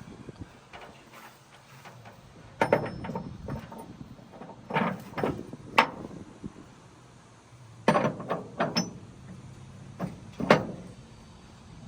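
Irregular metallic clanks and knocks, a few seconds apart, as parts and tools are handled during a gear-set swap in a truck's transfer case.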